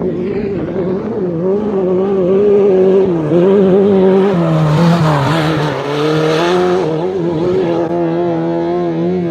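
An off-road race vehicle's engine running hard at speed, its pitch wavering. It grows louder and passes close about five to six seconds in with a rush of noise, then eases off slightly.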